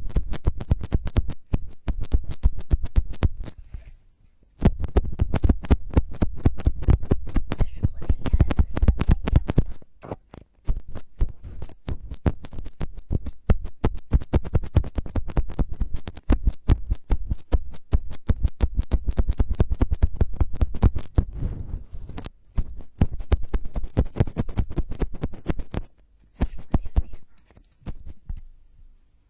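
ASMR scratching trigger close on the microphone: rapid, dense crackling clicks in long runs, broken by short pauses about four and ten seconds in, and thinning out near the end.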